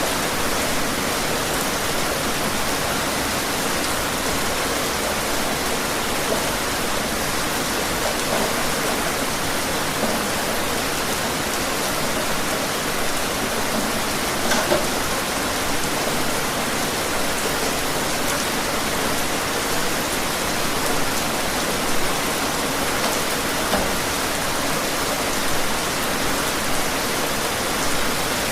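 Steady rain falling, an even hiss with occasional louder drops.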